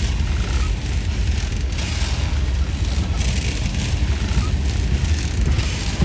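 Freight train rolling past close by: a steady low rumble with an even hiss of wheel and rail noise that pulses but never stops.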